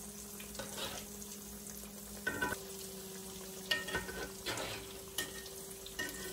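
Falafel patties sizzling steadily as they shallow-fry in vegetable oil, with a few short clicks and scrapes of a spatula against the pan as they are turned.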